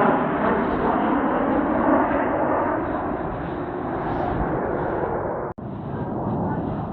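Jet noise of Blue Impulse Kawasaki T-4 jets flying over, a loud rushing sound that slowly fades as they move away. It cuts out for an instant a little over halfway through.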